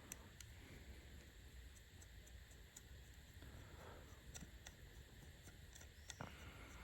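Near silence: faint low background hum with a few faint, scattered clicks.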